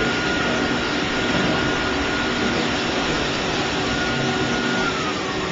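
Dog-grooming blow dryer running steadily with a loud rush of air and a motor whine, the whine gliding down in pitch near the end.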